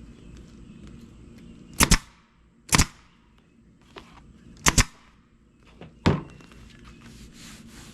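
Staple gun fired four times, a second or two apart, driving staples into an upholstered seat; the first and third shots each sound as a quick double snap.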